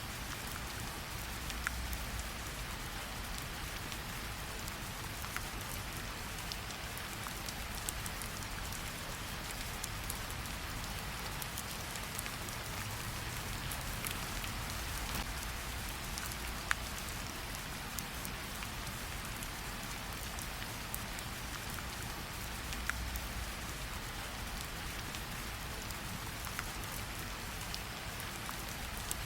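Steady rain falling, an even hiss, with a few isolated sharp pops scattered through it and a faint low rumble that swells now and then.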